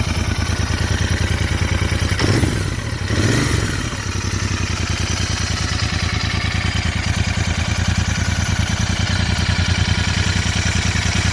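Royal Enfield Interceptor 650's parallel-twin engine running through its twin exhausts, mostly at a steady, evenly pulsing idle, with a brief change in the note about two to four seconds in.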